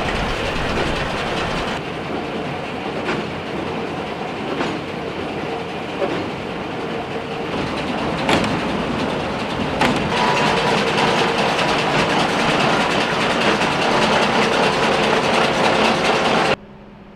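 Case IH 8575 big square baler running, a dense mechanical clatter with a regular knock about every second and a half. It cuts off abruptly near the end, leaving a low hum.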